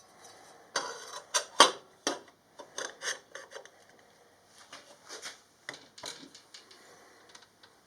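Hand work on metal exhaust tubing: a run of sharp knocks and short scrapes in the first two seconds, then lighter, scattered clicks and rubbing.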